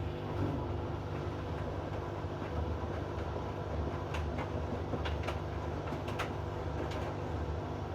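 Hoover inverter washing machine running mid-cycle: a steady low hum from the drum and motor, with a few sharp clicks near the middle.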